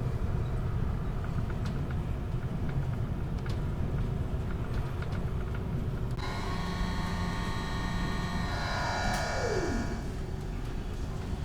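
Steady low rumble of a ferry's engines and hull under way. About six seconds in, a bright sound with several tones starts suddenly and lasts about four seconds, ending in a falling swoop.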